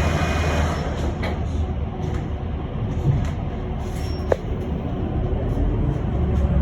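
Cabin noise of an electric bus on the move: a steady low rumble of tyres and road, with one sharp click about four seconds in.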